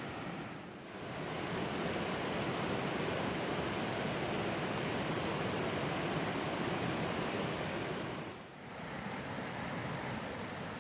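Rushing water of a waterfall and river, a steady even rush that dips briefly about a second in and again near the end.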